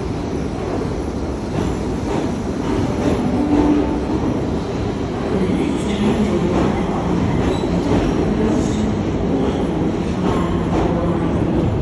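Sydney Trains H set (OSCAR) electric multiple unit pulling out of the station: steady running noise of the cars with a low motor hum and irregular clicks of the wheels over the rail joints.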